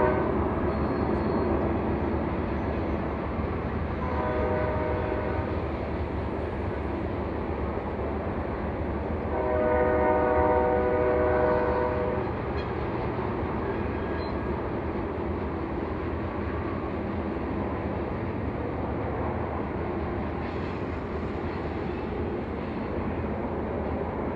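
Locomotive horn sounding over the steady rumble of a passing train: a blast that stops just after the start, a short one about four seconds in, and a longer, louder one around ten seconds in.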